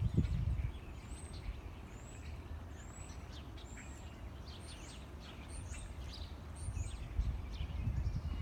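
Small birds chirping: a quick string of short, high calls, many of them falling in pitch, over a low rumble.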